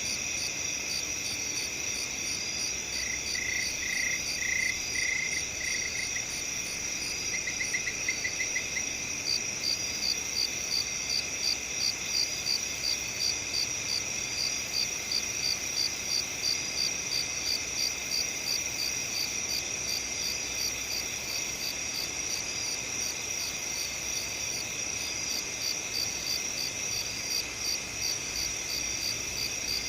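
Crickets chirping in a dense steady chorus, with one insect's regular pulsed chirp joining about a third of the way in and a short run of lower pulsed calls a few seconds in.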